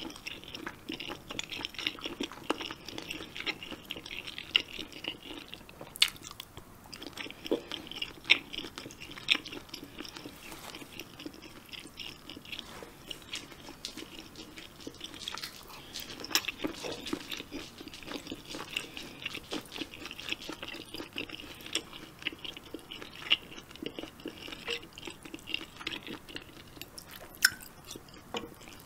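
A person chewing and crunching mouthfuls of spicy jjamppong vegetables and seafood close to the microphone, a continuous wet chewing with many sharp little crunches and clicks.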